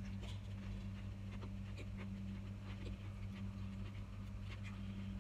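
Close-up chewing and small mouth smacks of someone eating a bite of raw tomato and cucumber, scattered soft clicks throughout, over a steady low hum.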